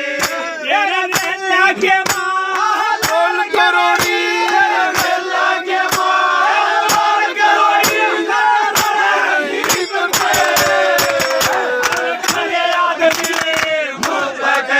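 Haryanvi ragni folk music played live: a held, wavering melody line over sharp, frequent percussion strokes, with voices in the mix.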